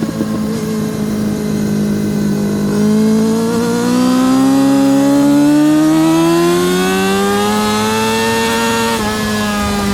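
Yamaha R6 RJ03's 600cc inline-four engine running hard: the note holds, then climbs steadily for about six seconds as the bike accelerates, and drops near the end.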